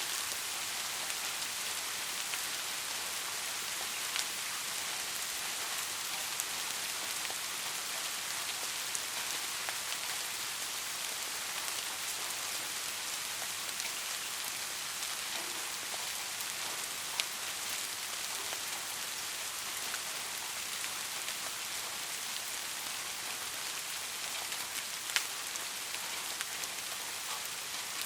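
Steady rainfall: an even hiss of rain with individual drops ticking sharply here and there, a few louder single drops standing out.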